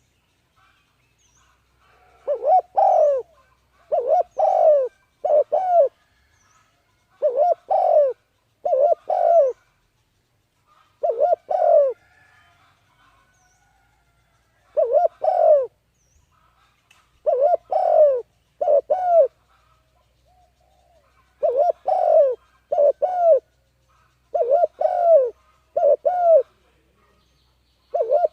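A bird calling: short arched notes, mostly in quick pairs, repeated about every one to two seconds with silent gaps between.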